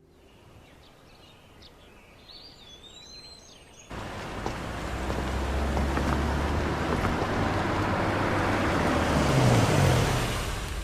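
Birds chirp faintly, then about four seconds in a car is heard driving, a heavy low engine and road noise that grows steadily louder.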